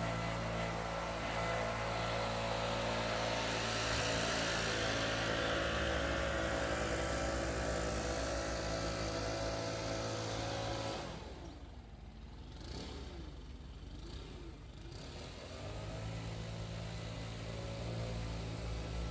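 Small petrol engine of a lawn tool running at full throttle, dropping back to a low idle a little past halfway for several seconds, then throttling back up near the end.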